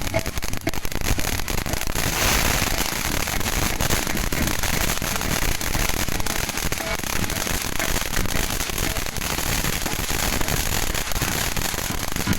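Fireworks going off as a dense, rapid crackle of pops, swelling louder about two seconds in.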